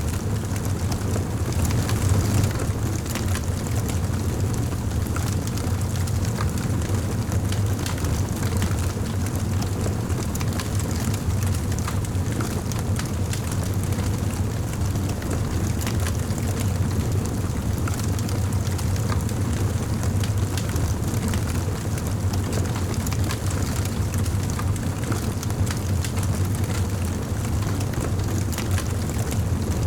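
Wood fire in a fireplace crackling steadily: many small irregular pops over a constant low rumble of burning flames.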